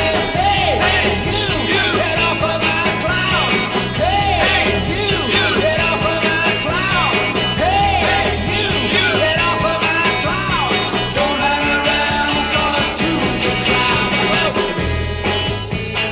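1960s garage rock band recording, an instrumental passage with drums, bass and a lead part playing swooping, arching notes.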